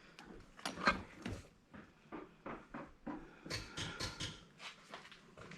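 Irregular light clicks and clinks of small parts and tools being handled and set down on a workbench while an angle grinder is dismantled.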